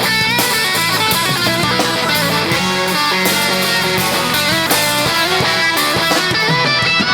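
Live soul band playing an instrumental passage, with electric guitar leading over bass and drum kit and no singing.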